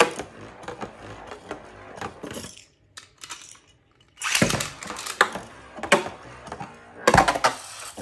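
Beyblade spinning tops clashing and skittering around a plastic attack-type stadium, with sharp clacks of impact. The clatter dies away after about two and a half seconds, starts again loudly about a second and a half later, and a hard hit comes near the end.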